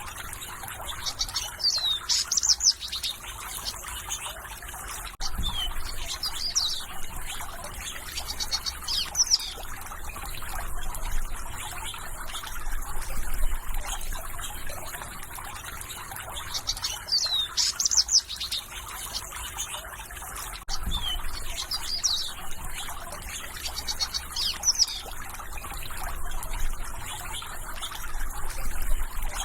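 Small birds chirping and singing in short, quick phrases that recur every second or two, over a steady trickle of running water.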